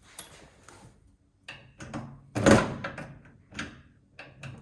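Metal parts of a gas instant water heater knocking and clattering as it is taken apart by hand: several separate knocks, the loudest about halfway through.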